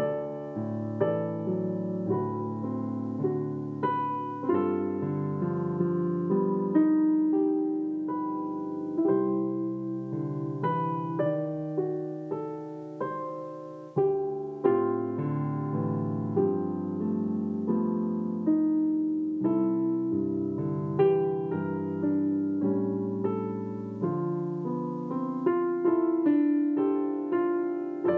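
Solo piano playing a Christmas song: struck chords and melody notes, each ringing out and fading.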